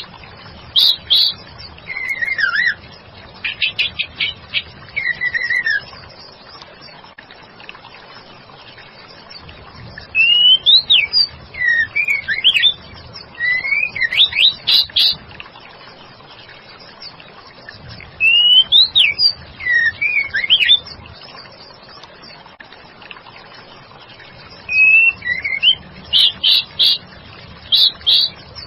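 Female white-rumped shama (murai batu) calling in bursts of quick chirps and rising and falling whistled notes, the phrases separated by pauses of a few seconds.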